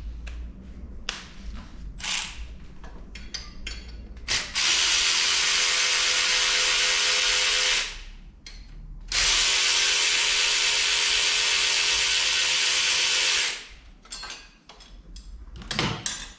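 A power tool runs steadily in two long bursts, about four and nine seconds in, undoing the thermostat housing bolts on the engine. Small clicks and knocks of handling the tool and parts come before and after.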